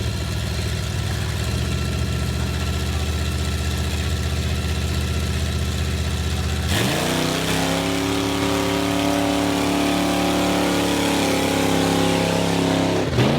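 A truck engine runs steadily at a low, even pitch, then revs up sharply about seven seconds in. It holds at high revs for several seconds and drops away right at the end.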